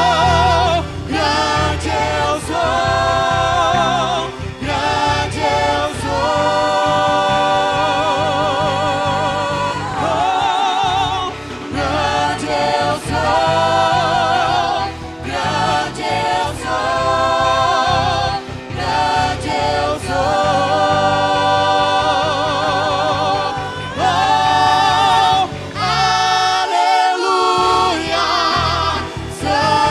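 Church choir singing a gospel worship song over instrumental backing, with long held notes sung with vibrato.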